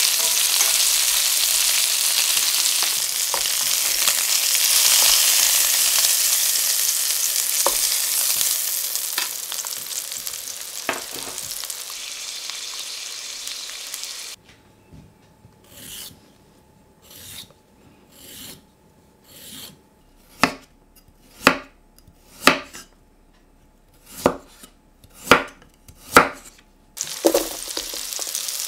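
Duck breast and new potatoes sizzling as they fry in oil in a stainless sauté pan, the sizzle slowly dying down, with a few tong clicks. About halfway through the sizzle cuts off, giving way to a quiet stretch of sharp single knocks, about one a second and loudest toward the end. Then the sizzle of frying starts again.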